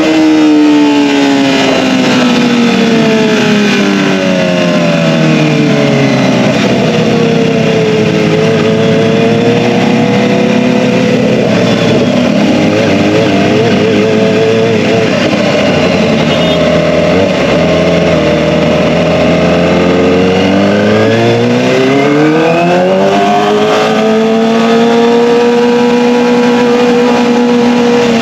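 Kawasaki ZX-25R's 250 cc inline-four running through an Akrapovic Evolution exhaust. The engine note falls steadily over the first several seconds, holds low for a long stretch, then climbs again about three quarters of the way in and holds at a higher pitch.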